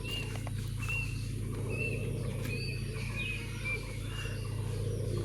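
A bird chirping: short, high chirps repeated about every half second, over a steady low hum.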